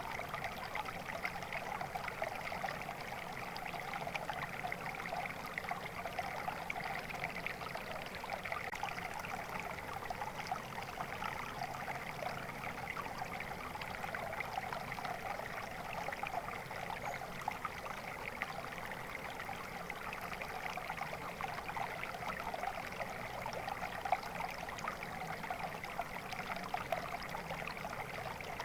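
A stream of water flowing and trickling steadily, a continuous bubbling splash that stays even throughout.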